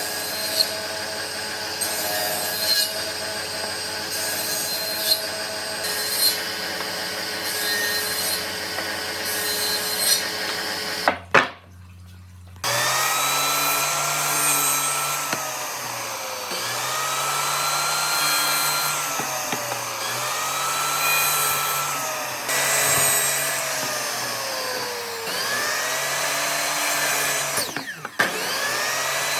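Electric power tool running on wood. It holds a steady tone at first, then after a brief break about eleven seconds in its pitch sags and recovers every two to three seconds.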